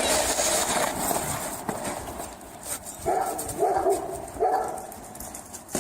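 A dog vocalizing in a series of four short, evenly spaced pitched calls, starting about three seconds in.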